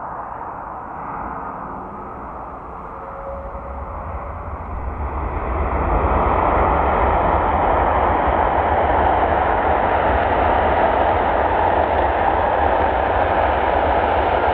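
Jet noise from an Airbus A330-300's Rolls-Royce Trent 700 engines, growing louder over the first several seconds, then holding steady and loud.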